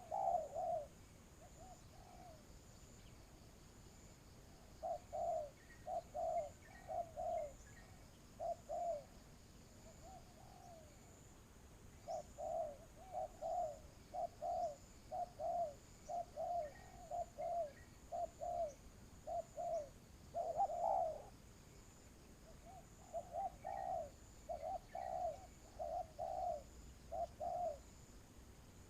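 Spotted dove cooing: phrases of short, low coos repeated with pauses between them, with one louder, rougher burst about twenty seconds in. A faint steady high tone and a few small chirps run underneath.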